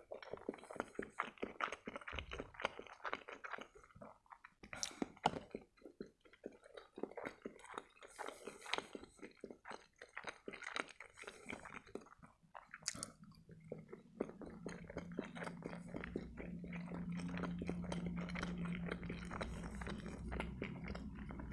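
Wet chewing and smacking mouth sounds of a man eating soft boiled pelmeni dumplings, with quick clicks throughout. A low steady hum comes in about two-thirds of the way through and stays under the chewing.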